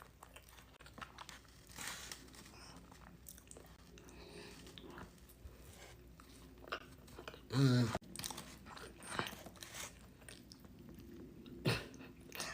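Close-miked mouth sounds of a person biting and chewing warm toast: small wet clicks and smacks throughout, with one short, louder vocal sound about two-thirds of the way through.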